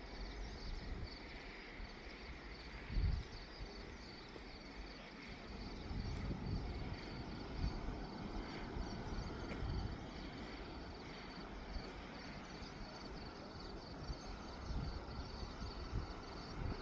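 Wind buffeting the microphone in uneven gusts, with a sharp thump about three seconds in and stronger gusts around the middle, over a steady high insect trill.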